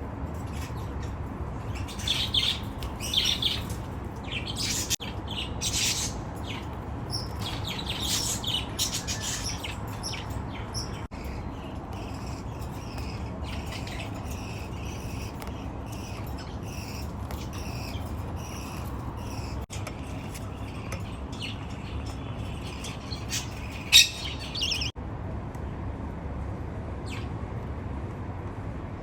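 Baby budgerigars chirping and squawking in short high calls, busiest for the first several seconds and then sparser, with one sharp loud call near the end, over a steady low background hum.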